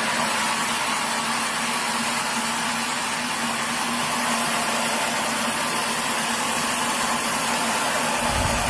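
Sawmill machinery running steadily with a constant hum and a dense hiss. A brief low thump comes near the end.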